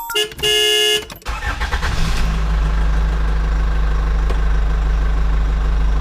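A short pitched tone, then a motor vehicle's engine starts about a second in and settles into a steady idle.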